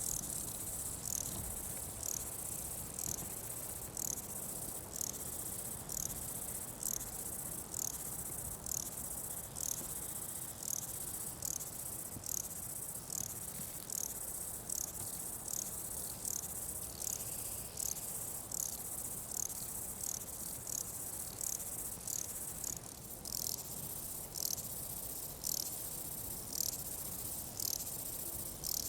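Night insect chorus, likely crickets: a continuous high-pitched trill with a louder chirp repeating evenly, about one and a half times a second.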